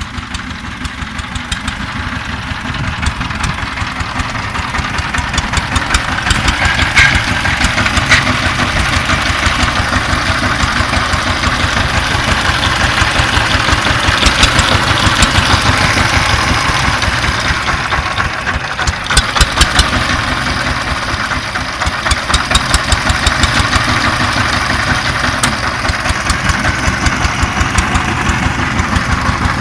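Power tiller engine running with a rapid, even chugging, growing louder over the first half, with a few sharp clacks along the way.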